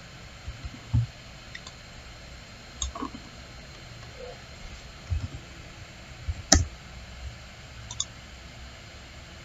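Computer mouse clicks and light knocks on a desk, scattered at irregular intervals over a steady background hiss, the loudest about six and a half seconds in.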